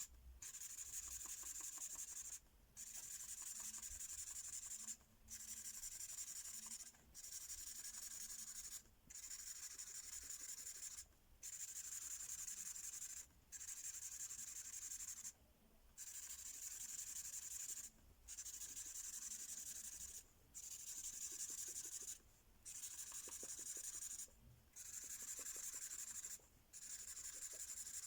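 Felt-tip magic-ink marker scribbling back and forth on paper while colouring in a page. It goes in spells of about two seconds with brief pauses between, about a dozen in all.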